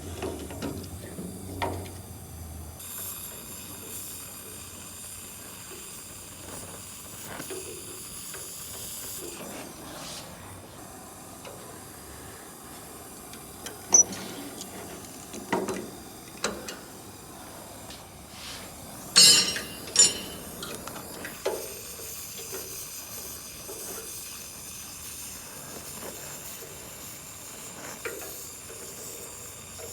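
Oxy-acetylene welding torch with a small tip hissing steadily as it lays tack welds on sheet-metal body panel, coming in about three seconds in. A few sharp metallic clicks stand out around the middle and later on.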